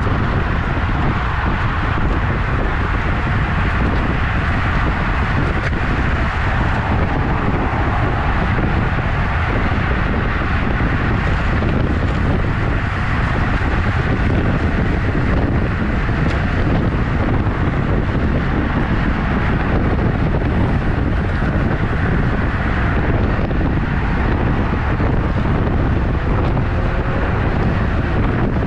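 Wind buffeting the microphone of a camera riding along on a moving road bike: a loud, steady rush with no breaks.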